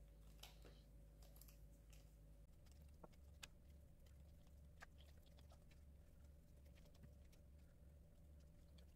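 Near silence with a few faint, scattered clicks of a screwdriver tightening the screws on a plastic battery-pack casing.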